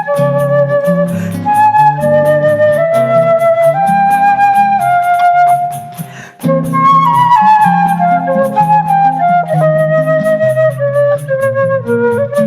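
Choro played live: a flute carries a running melody over lower accompanying chords, with a light high tick keeping a steady pulse about four times a second. The music breaks off briefly about six seconds in, then goes on.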